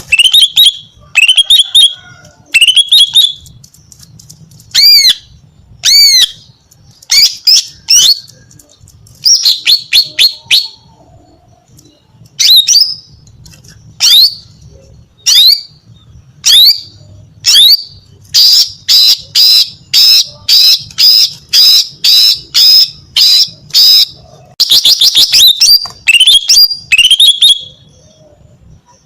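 Female green leafbird (cucak ijo) calling, a call used to lure males: loud, short chirps and squawks, some sliding in pitch, come in clusters. Past the middle they run into a fast, even string of notes, about three a second, for several seconds.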